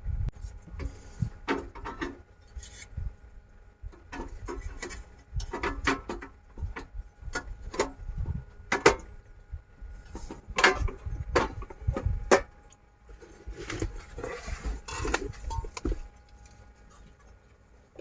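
Irregular clicks, knocks and light clatter of objects being handled and set down, with some rubbing, spaced unevenly over several seconds and quieter for a stretch near the end.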